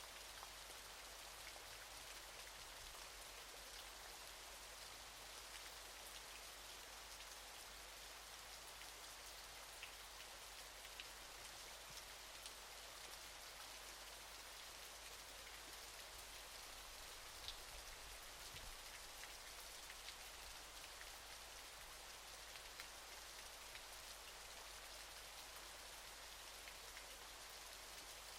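Faint, steady hiss of a waterfall's falling water, with a few scattered drip-like ticks.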